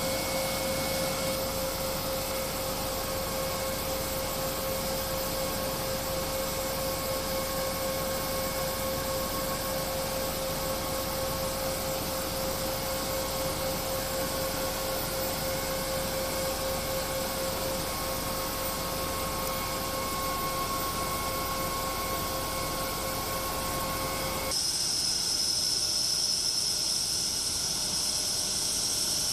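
Panavia Tornado fighter jet's RB199 turbofan engines running on the ground: a steady whine over a rushing hiss. About 25 seconds in, the sound cuts abruptly to a higher, shriller jet whine, and the low rushing part drops away.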